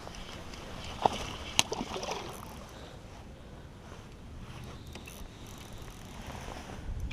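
Knocks and handling noise aboard an Ascend 133X kayak: two sharp knocks about a second in, then faint rustling over a low steady background.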